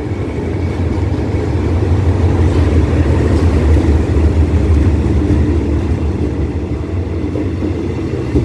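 Diesel locomotive of a passenger express train rumbling past close by as it slows to stop at the platform, followed by its coaches rolling by. The low engine rumble swells as the locomotive passes, about four seconds in, then eases a little.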